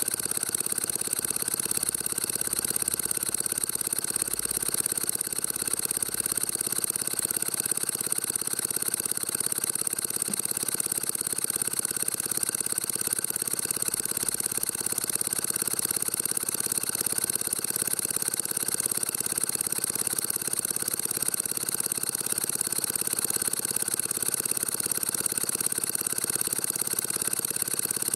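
H.E. Boucher twin marine steam engine running steadily on compressed air instead of steam, with a steady high hiss.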